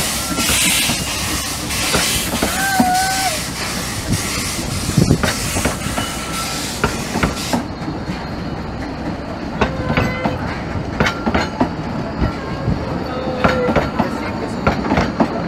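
Narrow-gauge railway coaches rolling slowly past, their wheels clicking over the rail joints with a few short squeals from the wheel flanges. A pulsing steam hiss runs alongside and cuts off suddenly about halfway through.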